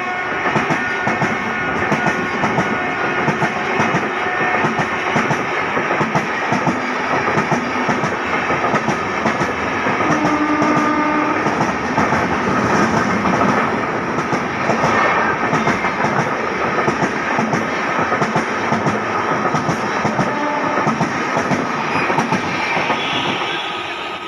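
Express train hauled by an electric locomotive, passing through a station at speed without stopping: a continuous rumble with rapid clickety-clack of the wheels over the rail joints, easing near the end.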